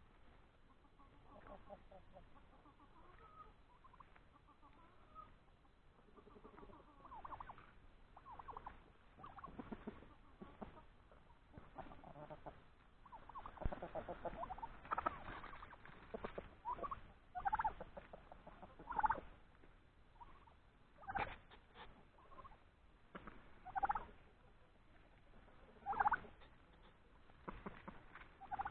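Domestic turkeys calling, with chickens among them: soft, scattered clucking at first, then louder short calls repeated about every two seconds through the second half.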